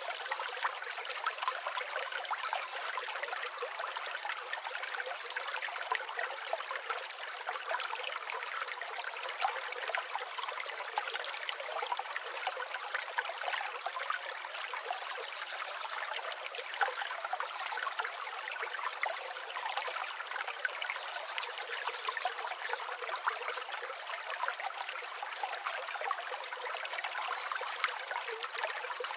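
River water flowing steadily, a continuous trickling, babbling rush with no deep rumble.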